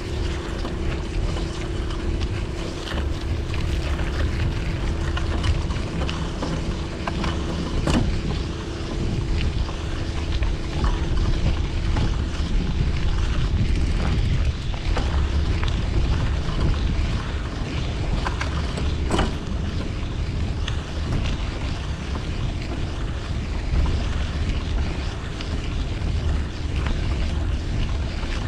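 City street traffic heard from a moving bicycle, a steady low rumble of passing vehicles with wind buffeting the microphone. A steady hum fades out about halfway, and a few sharp clicks stand out.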